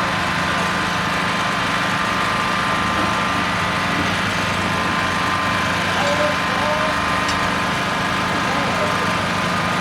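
An engine running steadily at a constant level, with a low hum and a higher whine that do not change.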